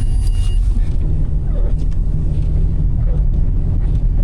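Car driving, a steady low rumble of engine and tyres.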